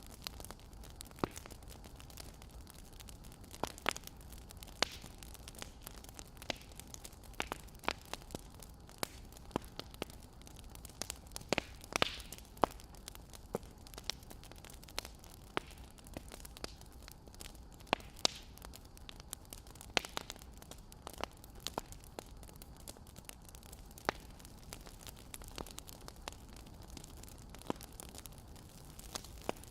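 Wood fire crackling: irregular sharp pops and snaps, one to a few a second, over a steady low hiss.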